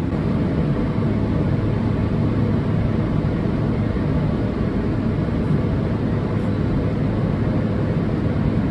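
Steady low rumble inside the cabin of a Boeing 777-300ER just after landing, with no breaks or distinct events.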